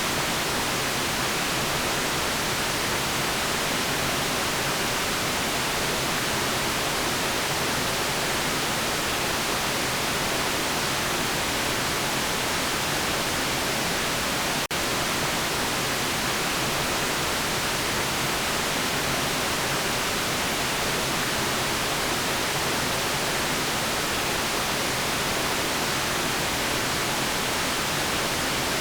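Steady white noise, an even hiss weighted towards the high end, with a split-second dropout about halfway through.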